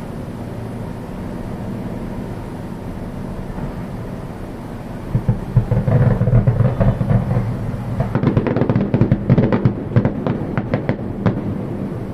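Aerial fireworks going off. A steady low rumble gives way, about five seconds in, to a rapid string of bangs and crackles that is densest over the last few seconds.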